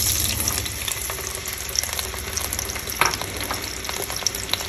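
Chopped tomato sizzling and crackling in hot vegetable oil in a frying pan, with sharp pops here and there, the loudest about three seconds in.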